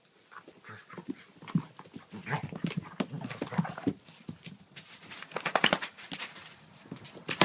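A puppy and an older dog play-fighting: scuffling, the clicking of claws on a hard floor, and short growls and yelps, starting just after the start and getting busier near the end.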